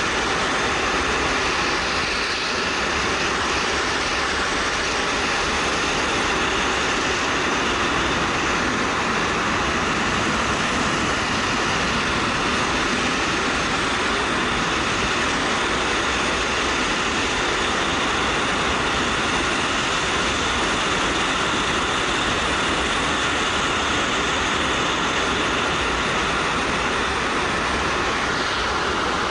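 Steady wind rush over a helmet-mounted action camera while riding a Suzuki GW250 motorcycle, with the bike's engine running underneath.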